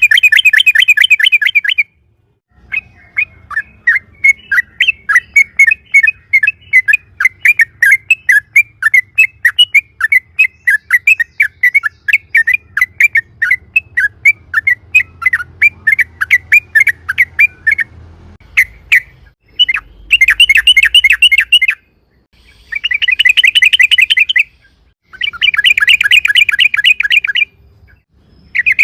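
Yellow-vented bulbul (trucuk) singing: a long run of loud, separate chirps at about three to four a second, then from about two-thirds in several short bursts of fast, rattling chatter. A faint low hum runs underneath.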